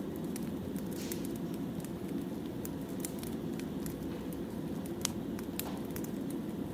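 Firewood burning: irregular sharp pops and snaps over a steady low rushing noise.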